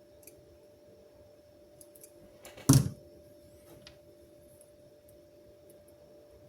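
A faint steady hum with a few light clicks, and one short, loud knock a little under three seconds in.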